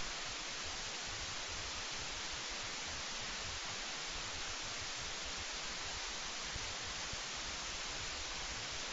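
Steady, even hiss of background noise with no distinct calls or events.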